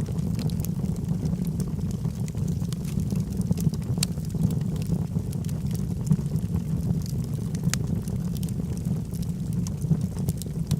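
Logs burning in a fireplace: a steady low rumble from the flames with frequent sharp crackles and pops from the wood.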